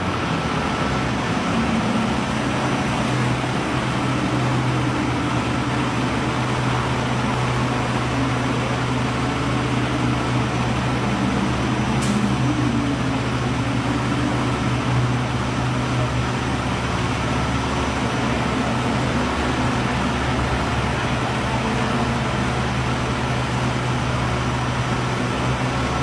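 A large vehicle's engine running steadily, with street traffic around it.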